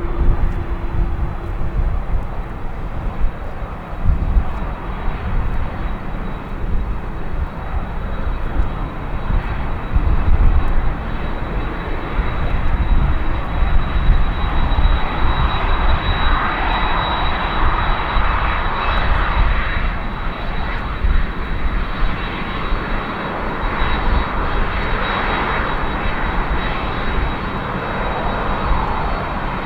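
Boeing 767-300ER jet engines running, a steady whine over a broad roar that grows louder from about halfway through, with gusty wind rumbling on the microphone.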